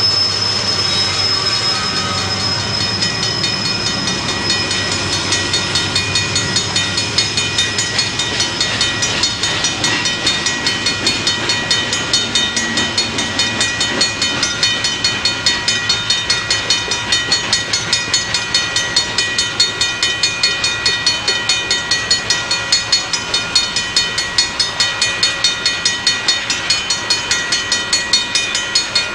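Freight train cars rolling past, their wheels making a fast, even clicking that grows more distinct toward the end, with steady high-pitched wheel squeal over it.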